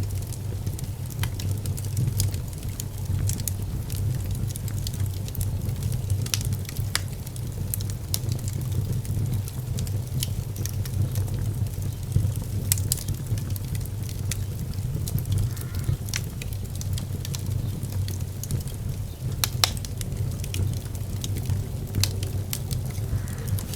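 Wood fire burning in a fireplace: a steady low rumble with scattered sharp crackles and pops, two louder pops about 13 and 19 seconds in.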